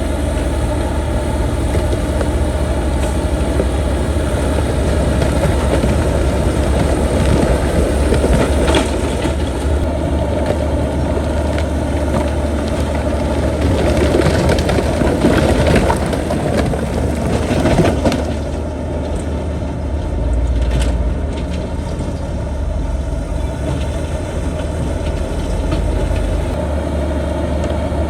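Diesel engine of heavy earthmoving machinery running steadily under a deep low hum. Through the middle it gets louder and rougher, then eases off about eighteen seconds in.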